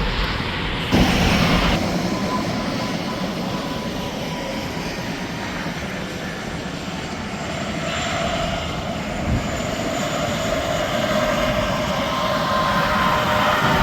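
Interstate highway traffic going by: a steady rush of tyre and engine noise from trucks and cars, with a whine that falls in pitch near the end as a vehicle passes.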